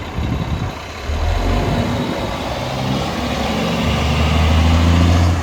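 Semi truck's diesel engine running and getting steadily louder, as a truck draws closer or pulls away under power.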